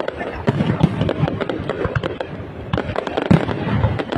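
Aerial fireworks display in a dense, unbroken barrage: rapid sharp pops and crackles, several a second, over a deeper rumble of shell bursts, with a few louder booms.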